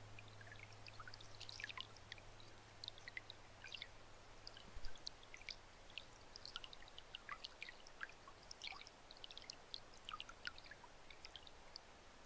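Faint trickling water: a dense scatter of small drip-like plinks, with a low hum that stops about five seconds in.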